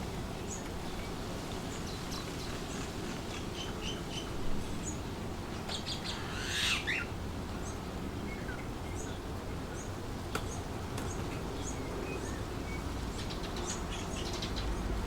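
Wind blowing steadily through trees, with birds chirping throughout in short, scattered calls and one louder, longer call about six to seven seconds in.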